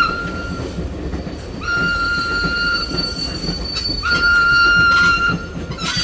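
A passing train rumbling, with three high, steady tones of about a second each sounding over it, one from the start, one about two seconds in, one about four seconds in.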